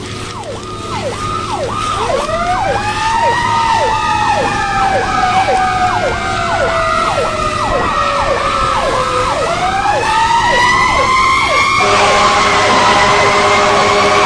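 Fire apparatus sirens getting louder: an electronic siren yelps fast while a mechanical siren winds up, slowly coasts down and winds up again. Near the end the yelp stops and a steady horn blast of several notes sounds over the wail.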